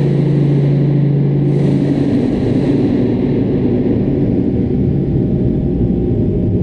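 A very large spring bolted to a wooden beam, heard through a contact mic, ringing and rumbling in a loud, steady low drone with several sustained tones. A brief hissing scrape rises over it about a second and a half in.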